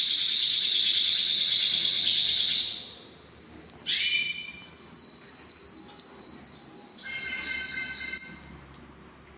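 Domestic canary singing a series of rolled phrases. It starts with a fast high trill held on one pitch, then about four slurred whistled notes a second for some four seconds, then a short, lower, ringing phrase. The song stops a little after 8 seconds in.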